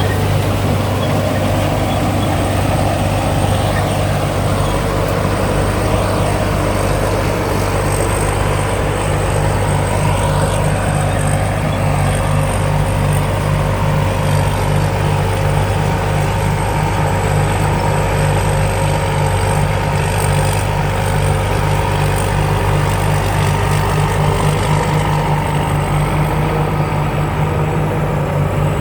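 Amnuay Karnchang combine harvester with a 260 hp Hino J08C diesel engine running steadily while working a rice field: a loud even engine drone with a thin high whine over it.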